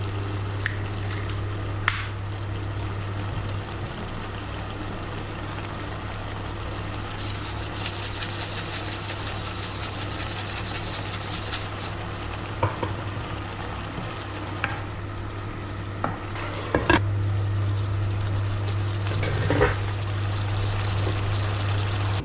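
Chicken curry frying in a pot, stirred with a utensil that knocks against the pot now and then. The sizzle swells into a loud hiss for several seconds in the middle, over a steady low hum.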